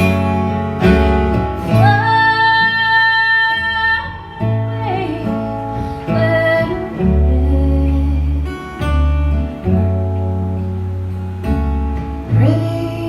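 Acoustic folk music, an instrumental break of the song: plucked guitar over low bass notes that change about once a second, with a long held high melody note about two seconds in.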